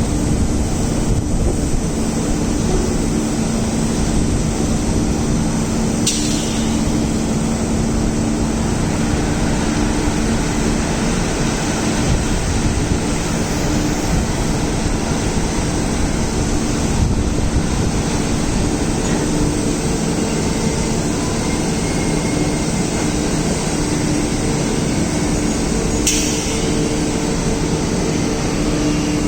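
Wagon tippler machinery running with a steady loud noise and a constant low hum, with two sharp clanks, one about six seconds in and one near the end.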